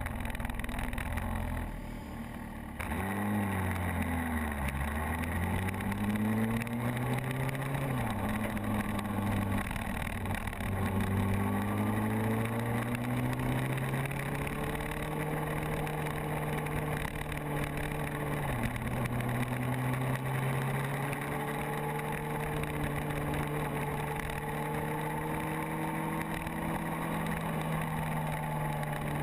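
Motorcycle engine under way, its pitch dropping sharply about three seconds in, climbing steadily as it accelerates, dipping again at a gear change past the halfway point, then holding steady at cruising speed, with a constant rush of wind and road noise.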